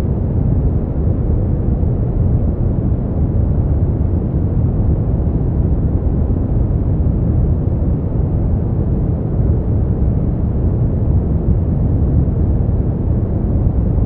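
Continuous sleep-aid noise, steady and unbroken, deep and dull, with most of its weight in the low end and no high hiss.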